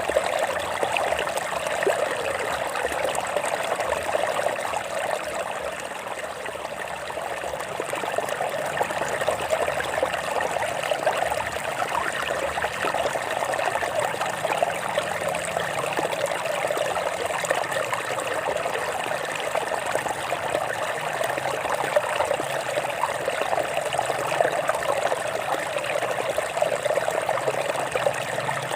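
Stream water flowing and trickling over rocks: a steady, unbroken rush of water.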